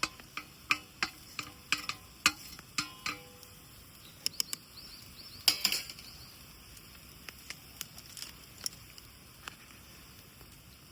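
Camp cookware and utensils being handled: irregular light metallic clinks and taps, some ringing briefly. They are thickest in the first three seconds, with a dense rattle about five and a half seconds in, then sparse ticks.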